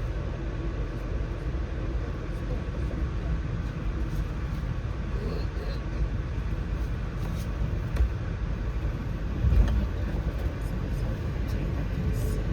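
Amtrak passenger train running along the track: a steady low rumble, with a couple of heavier thumps about eight and ten seconds in.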